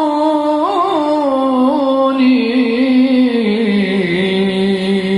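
A solo voice singing one long, wordless note in Arabic style, with a quick ornament about a second in, then stepping down in pitch and holding the lower note.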